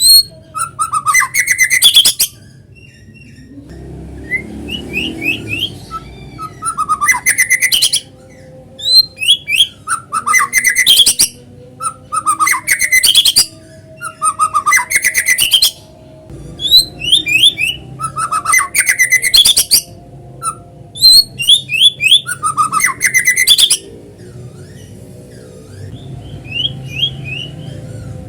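White-rumped shama singing loud, varied song phrases with short pauses between them; the phrases hold quick runs of falling notes and sharp clicks. A quieter stretch of soft twittering comes near the end.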